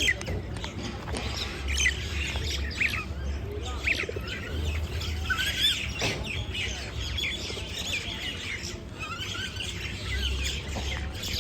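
Several small birds chirping, many short overlapping chirps and quick tweets with no pause, over a steady low rumble.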